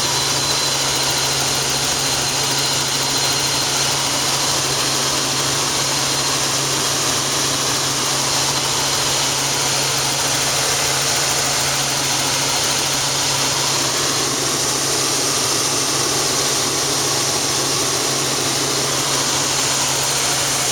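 Helicopter in flight: a steady, even engine and rotor noise with a faint high whine.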